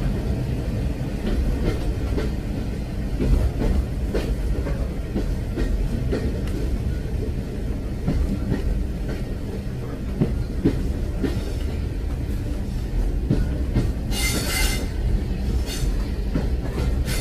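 Train running on the rails: a steady low rumble with irregular clicks and knocks of the wheels over the track, and a brief high-pitched metallic wheel squeal near the end.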